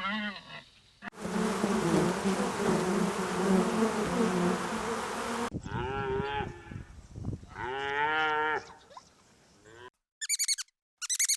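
A string of animal calls: a long harsh call, then two drawn-out calls that waver in pitch, then rapid high chirps near the end.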